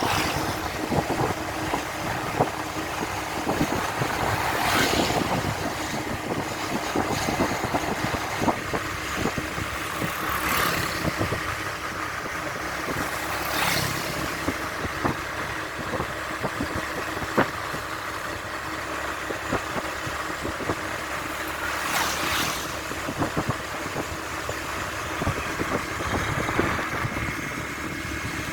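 Steady vehicle and road noise with wind buffeting the microphone, scattered small ticks, and several brief whooshes.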